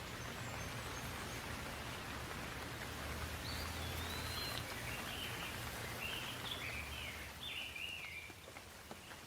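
Steady rain falling, a soft even hiss. In the middle a bird calls in a run of short chirping notes, and near the end the rain eases a little.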